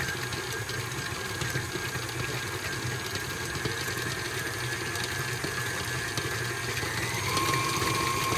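KitchenAid stand mixer running, its motor whining steadily while the attachment beats and shreds cooked chicken breasts, with small ticks from the bowl. About seven seconds in, the whine steps up in pitch.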